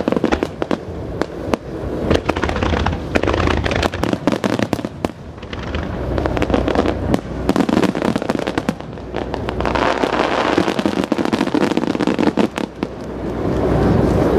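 Aerial fireworks bursting in quick succession, a dense run of sharp bangs and crackles over a steady low rumble, easing off briefly about five seconds in and building louder near the end.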